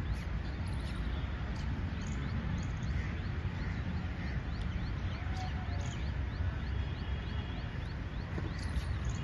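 Steady low outdoor rumble with small birds chirping over and over in the background: short, rising chirps a few times a second throughout.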